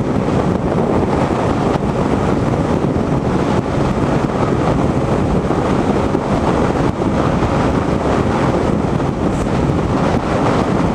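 Steady wind rush on the microphone with the road and engine noise of a motorcycle riding at speed.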